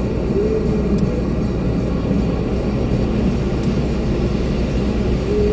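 Concrete mixer truck's diesel engine running steadily during a pour, heard from inside the cab.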